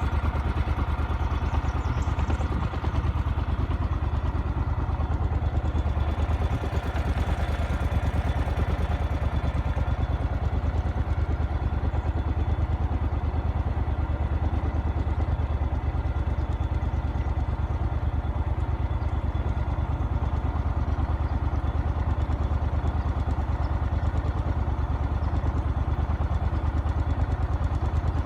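Vehicle engine running steadily, a constant low drone with fast, even pulses.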